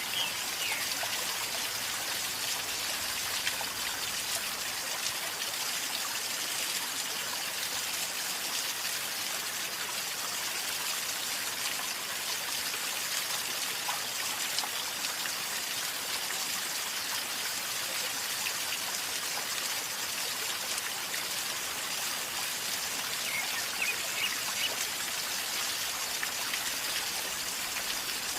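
A calmly flowing river gurgling and trickling in a steady, even rush of water. A few faint high chirps come through about a second in and again near the end.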